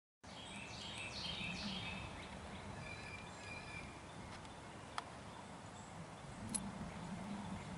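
Birds chirping outdoors: a run of short, high calls and quick falling notes in the first few seconds, then fainter, with two sharp clicks in the second half.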